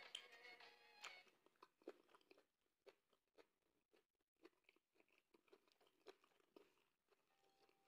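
Close-up chewing: a person chewing a mouthful of ogbono soup with fish and beef, with many small, irregular mouth clicks several times a second.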